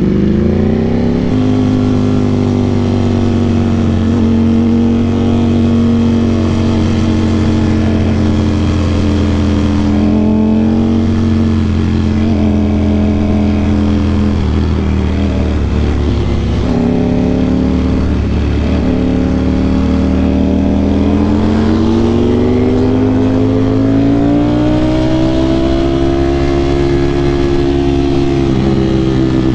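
Sport motorcycle engine running under way at a fairly steady pitch, with a slow rise in pitch from about twenty seconds in as it speeds up.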